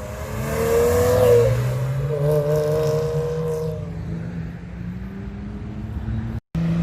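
A car engine revving hard as it accelerates away, its pitch climbing about a second in, then dropping and climbing again as it shifts up. The sound cuts out abruptly near the end.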